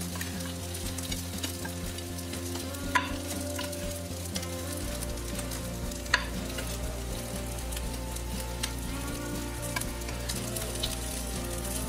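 Vegan chicken strips sizzling as they fry in a little hot oil in a pan, with two sharp knife clicks about three and six seconds in.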